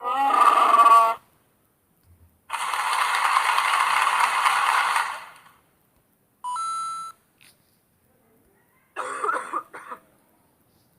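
A run of short, separate sound effects with silent gaps between them: one about a second long at the start, a longer noisy one of about three seconds, a brief steady tone about six and a half seconds in, and a short burst of sounds near the end.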